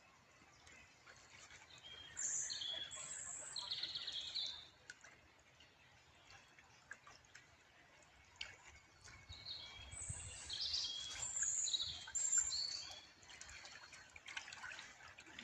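Songbirds chirping and singing in two bouts, one about two seconds in and a longer one around ten seconds in, over a faint steady trickle of water.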